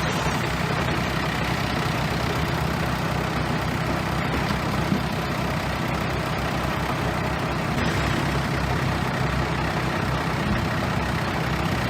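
Bulldozer's heavy diesel engine running steadily under work.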